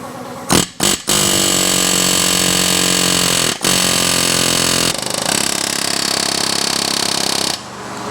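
Pneumatic air hammer hammering on a hydraulic cylinder's seized top gland. It fires two short bursts, then runs in long stretches with one brief stop, and changes to a lighter, faster rattle for the last few seconds before stopping.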